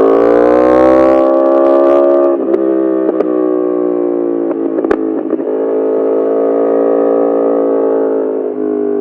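Yamaha R1 inline-four through an Akrapovic full titanium exhaust, its note rising under acceleration and then holding. About two seconds in the throttle eases off, and a few sharp pops come from the exhaust. It then settles into steady running at a lower level.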